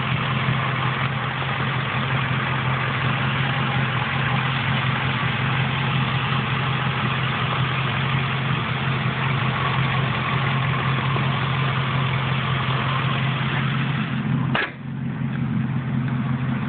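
1997 Ford Mustang GT's 4.6-litre V8 idling steadily with the hood open. Near the end a single sharp thump, most likely the hood being shut, after which the idle sounds more muffled.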